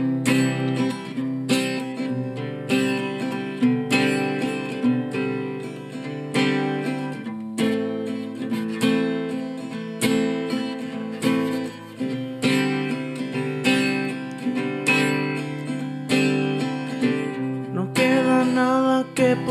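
Acoustic guitar strumming chords in a steady rhythm, a song intro. Near the end a wavering voice line joins the guitar.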